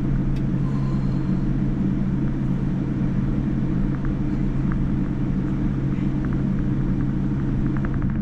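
Steady low rumble of a Boeing 787-9's engines and airflow heard inside the passenger cabin, with a strong even hum and a few faint clicks.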